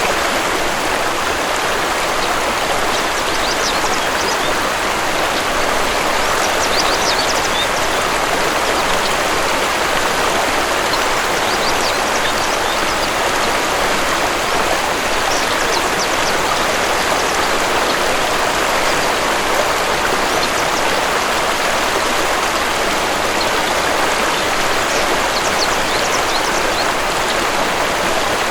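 Steady rushing water of a waterfall, with a few faint, short bird chirps now and then.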